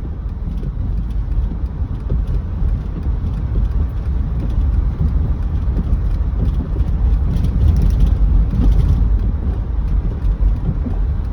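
Steady low rumble of a car's tyres and engine heard from inside the cabin while driving on a slushy, snow-covered road, a little louder in the middle.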